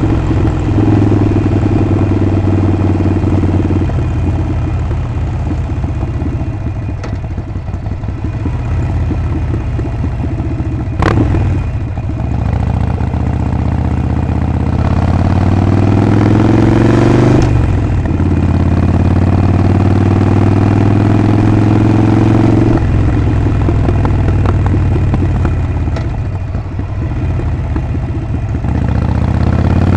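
Harley-Davidson Sportster 48's 1200 cc V-twin engine and exhaust under way. After a sharp click about a third of the way in, the engine note climbs through a gear, drops at an upshift, holds steady, and eases off. It starts climbing again near the end.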